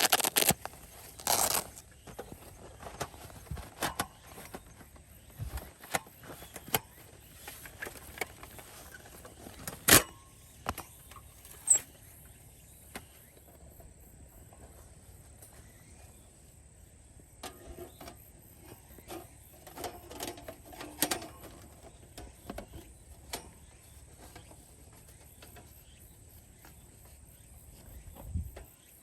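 Sharp, irregular clicks and knocks over a faint steady background, with the loudest knock about ten seconds in.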